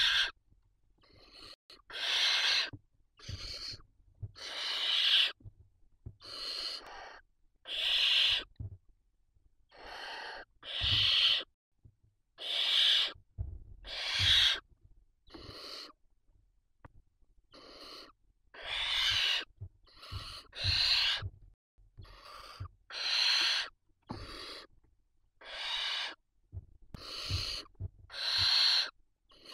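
Barn owl chicks giving their rasping, hissing begging calls over and over, roughly one every second or two, some louder than others.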